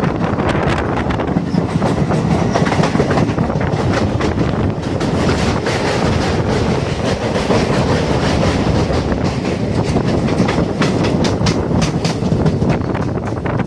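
Moving passenger train heard from on board: a steady rumble of wheels on rails, with a quick run of clacks over rail joints in the second half.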